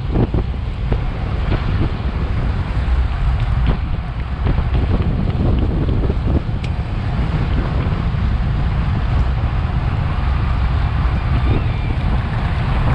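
Wind buffeting a bicycle-mounted action camera's microphone at racing speed: a steady, loud low rumble with a few light clicks.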